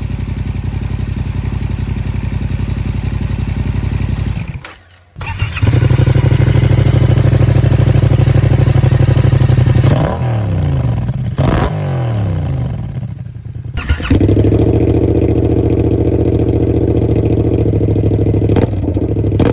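Yamaha XSR700's parallel-twin engine running through an Arrow aftermarket muffler: idling, cutting out briefly about five seconds in, then running louder, with a few throttle blips rising and falling in pitch between about ten and thirteen seconds before settling back to a steady idle.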